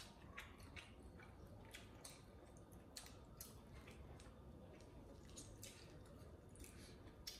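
Faint chewing and mouth clicks of people eating chicken wings, irregular soft clicks scattered throughout.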